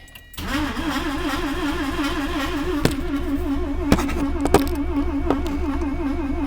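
Starter cranking the 1982 Mazda RX-7's carbureted 12A rotary engine: a steady whirr that wavers in pitch several times a second with the rotor pulses, with a few sharp clicks. The engine does not catch.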